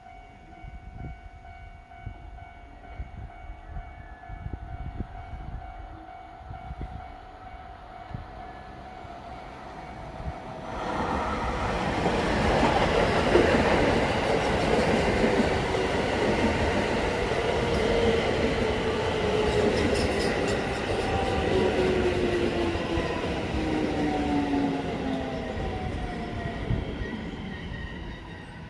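A JR 223-series electric train arrives at the platform. For the first ten seconds there are only faint steady tones, then a loud rush of the train coming in. Through the loud part a motor whine falls steadily in pitch as the train brakes, and the sound eases off near the end as it comes to a stop.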